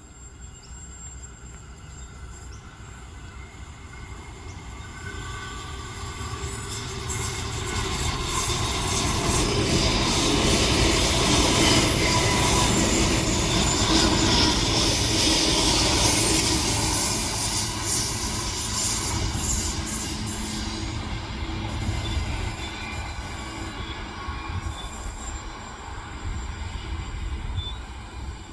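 Electric suburban passenger train running on the rails past the station platform, growing louder over several seconds, loudest around the middle, then fading away.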